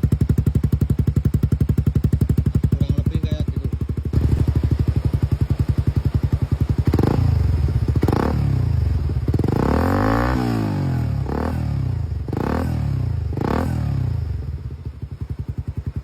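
Motorcycle exhaust through an Akrapovic Evolution aftermarket silencer: the engine idles with an even beat, then gets two quick throttle blips about seven seconds in, one longer rev that rises and falls around ten seconds, and three more short blips, before settling back to idle near the end.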